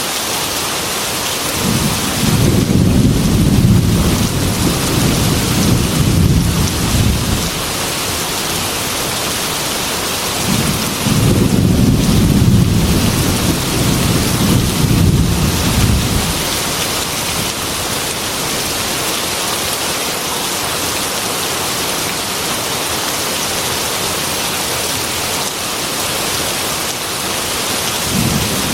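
Heavy rain beating steadily on a glass window, with two long, low rolls of thunder: one begins about two seconds in, the other near the middle, each lasting five or six seconds. A third roll starts at the very end.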